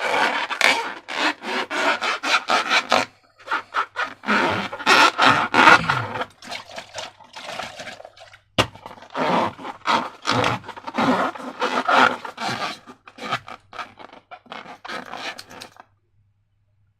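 Rapid, irregular scraping and rubbing of slime-making materials being handled, in quick crisp strokes that pause briefly twice and stop near the end.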